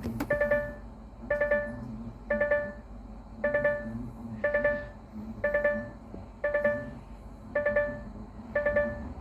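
An electronic chime repeating about once a second over a steady low hum.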